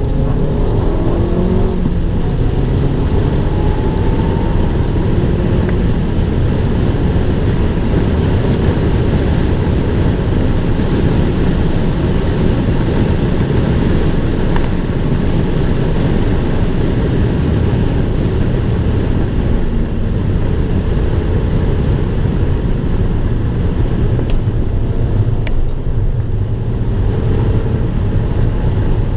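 Abarth 595 Turismo's turbocharged 1.4-litre four-cylinder running at speed on track, under a steady, dense roar of road and tyre noise, with a few brief rises and falls in engine pitch in the first couple of seconds.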